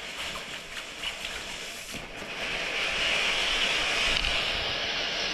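Fountain firework spraying sparks with a steady hiss, which swells and grows louder about two and a half seconds in.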